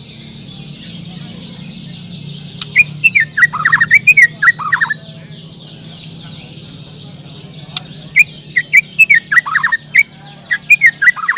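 White-rumped shama (murai batu) singing loud, rapid runs of varied whistled notes in two bursts, the first about two and a half seconds in and the second about eight seconds in, over a dense background chorus of other birds chirping and a low steady hum.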